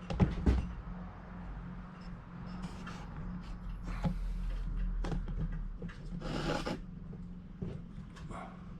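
Clamps being handled and fitted against a window frame: scraping and rubbing with scattered clicks, and a longer scrape about six and a half seconds in.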